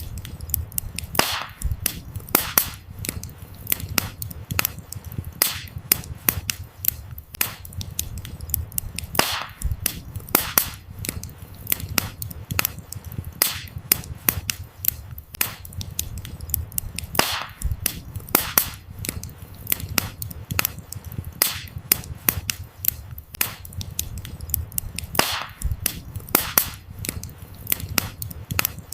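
Wood fire crackling: a dense stream of sharp snaps and pops from the burning logs, a few of them louder, over a steady low rumble of flame.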